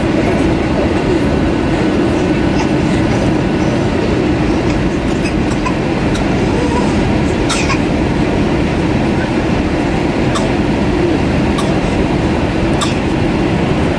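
Steady cabin noise inside an Airbus A320-232 airliner: a loud, even rush of engine and airflow noise, with a few faint clicks.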